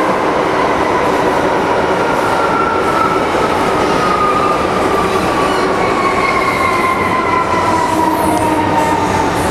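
MTR Tsuen Wan Line M-Train running on the track: a loud, steady rumble of wheels and running gear, with a whine that falls slowly in pitch as the train slows.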